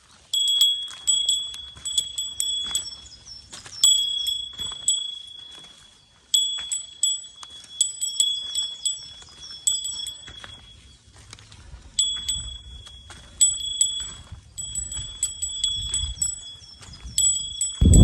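A small metal bell, a hiker's bear bell, jingling over and over in an uneven walking rhythm, about one or two strikes a second, each ringing on briefly; it falls silent for a moment twice.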